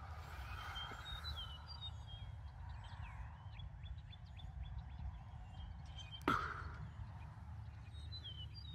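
Birds chirping and calling, many short chirps and sweeping notes, over a low wind rumble on the microphone. A single sharp knock about six seconds in.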